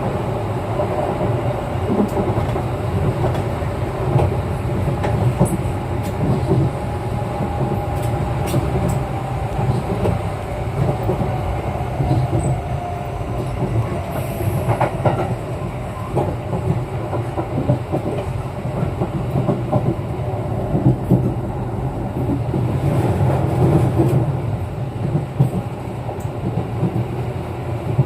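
Kintetsu 9020 series electric train running at speed, heard from inside the car: a steady low rumble of wheels on rail with a motor whine and the occasional clack of a rail joint.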